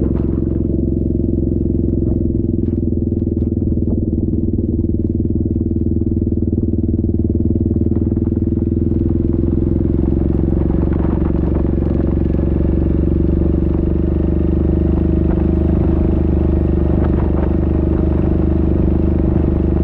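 Yamaha Grizzly 700 ATV's single-cylinder engine running at a steady, even speed, with a rougher hiss joining from about halfway through.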